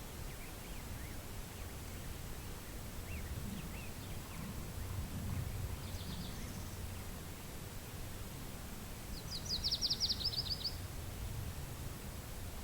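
Wind rumbling on the microphone, with a few faint bird chirps and, about nine seconds in, a songbird's rapid high trill of a dozen or more quick notes lasting about a second and a half.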